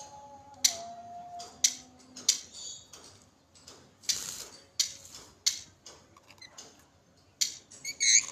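Irregular sharp taps and clicks, a dozen or so, and a short high lorikeet chirp near the end. Faint background music fades out in the first couple of seconds.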